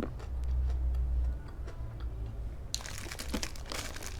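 Close-miked eating noises: a low rumble of handling against the microphone, then, over about the last second and a half, dense crinkling and crunching as food and its wrapping are handled.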